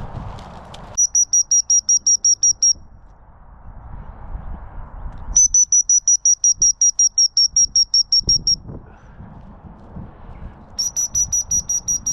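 A dog whistle blown in rapid, even pips at one high, steady pitch, about six a second, in three runs with pauses between them. It is the gundog recall signal calling a German shorthaired pointer back to the handler.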